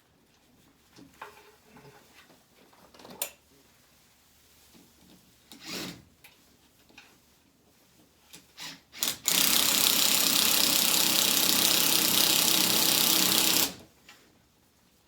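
A few light clicks and knocks, then a power tool's motor runs steadily for about four and a half seconds and stops abruptly.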